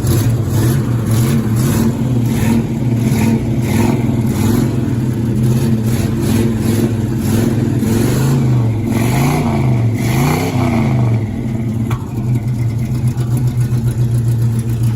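Pontiac Bonneville's 307 V8, exhausting through Flowmaster mufflers, idling steadily and then revved up and down in a few quick blips about two-thirds of the way in. The owners think it sounds like it has a cam.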